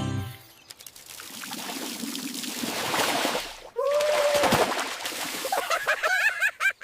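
Cartoon sound effect of water pouring and splashing, a steady hiss lasting a few seconds. A short pitched vocal "ooh" follows, then a quick run of bouncy, high voice sounds near the end.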